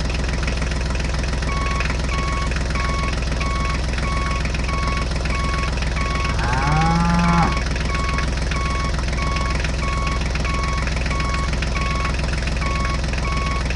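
A steady machine drone with an evenly repeating electronic beep, about two beeps a second. About halfway through there is a brief call that bends up and down in pitch.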